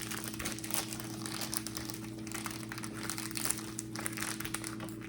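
Plastic snack wrapper crinkling as it is handled and opened, in irregular small crackles.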